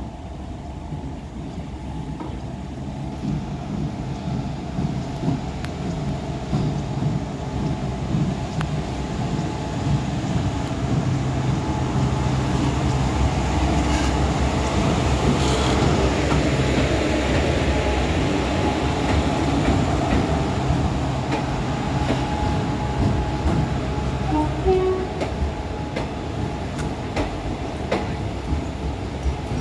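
Express passenger train arriving at a station. The locomotive passes with a steady low hum that builds to its loudest about halfway through, then the coaches roll by with wheels clicking over rail joints near the end.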